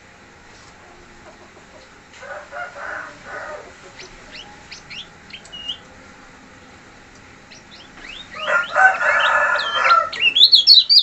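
Bird calls from a kecial kuning (lemon-bellied white-eye) recording: scattered short, high chirps. About eight seconds in comes a louder, lower-pitched burst of calls, and near the end a rapid, high twittering song begins.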